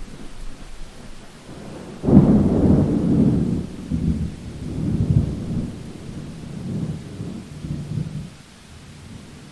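Thunder clap breaking suddenly about two seconds in and rolling in several low swells that fade out near the end, over steady rain.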